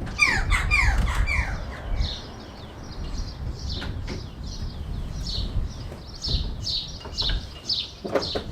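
Songbirds chirping, short repeated high calls, with a quick series of falling chirps in the first second or so. A low rumble runs under the first two seconds and returns briefly later.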